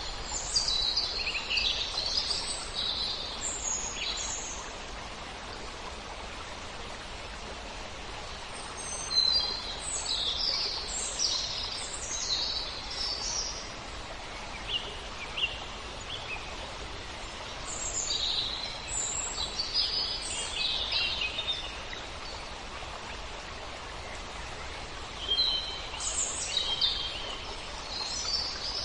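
Songbird singing in short bursts of high chirps, a phrase of a few seconds roughly every eight to nine seconds, over a steady hiss of wind through leaves.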